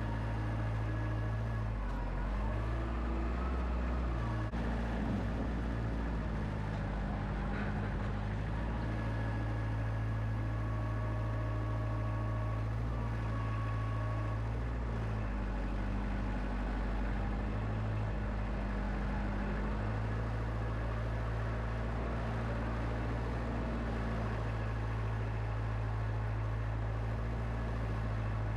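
Wood-Mizer LX25 sawmill's engine running steadily, its pitch dipping and recovering several times.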